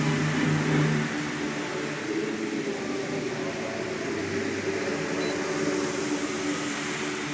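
Steady rushing hiss of fountain water jets spraying and falling, with the show's choral music fading to a soft background after about a second.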